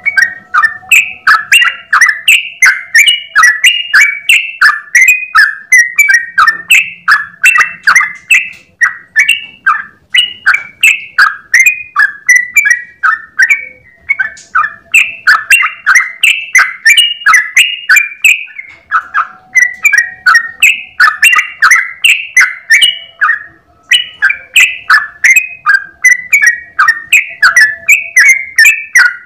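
Yellow-vented bulbul (trucukan) singing a long continuous run of short, crisp chirping notes, about three or four a second, with only brief breaks.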